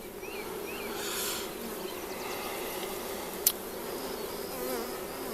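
Honey bees humming steadily around an opened hive during a frame inspection, with one sharp click about three and a half seconds in.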